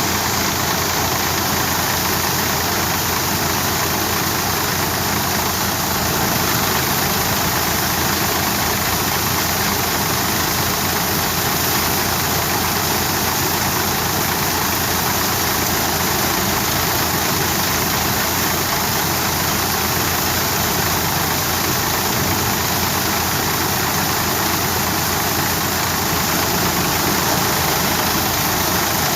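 Tractor-driven wheat thresher running steadily: the tractor engine and the threshing machine make one loud, even mechanical din that does not change.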